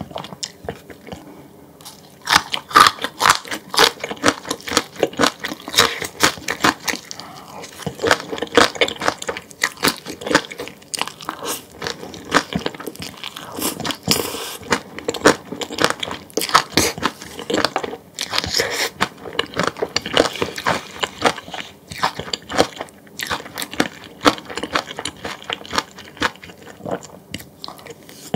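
A person chewing and crunching food close to the microphone, with dense, irregular crunchy bites that start about two seconds in.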